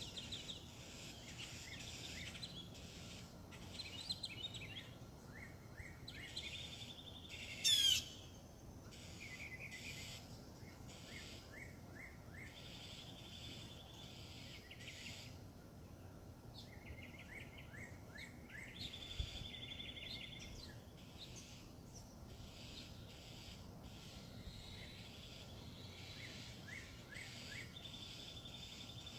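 Backyard songbirds singing, repeating short phrases and trills, with one louder sweeping call about eight seconds in.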